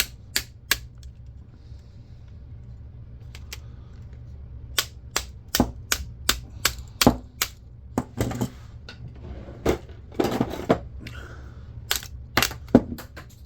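Sharp clicks and taps of small plastic and metal camcorder parts being handled and pried apart with hand tools, coming in irregular clusters. Scraping and rustling are mixed in around the middle.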